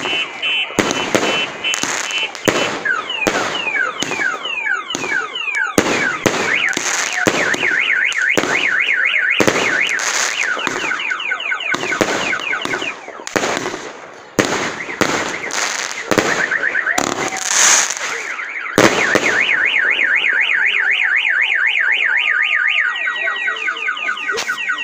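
Fireworks going off in a rapid, irregular string of sharp bangs. Under and between them, electronic alarms wail in a fast up-and-down warble. The bangs die away about three quarters of the way in, leaving the alarms wailing and beeping.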